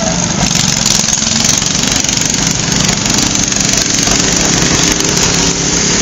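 Antique tractor engine running steadily.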